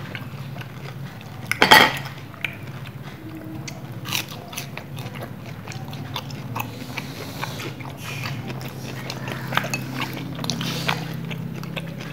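Close-up chewing and biting of crispy fried cireng (tapioca fritters), with many small wet clicks and one loud crackling crunch about two seconds in, over a low steady hum.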